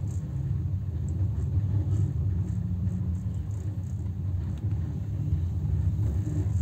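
Passenger train under way: a steady low rumble.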